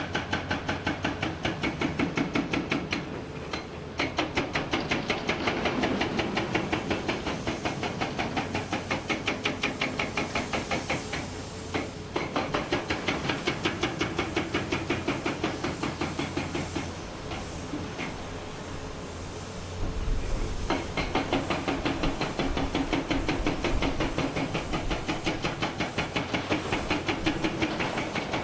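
Hydraulic breaker hammer on a Komatsu PC490 excavator pounding rock in a rapid, even run of about five blows a second. It stops briefly twice and for about three seconds past the middle, then starts hammering again.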